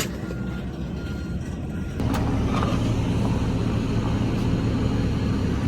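A motor vehicle's engine running steadily, growing louder about two seconds in. In the first two seconds a short high beep repeats about twice a second.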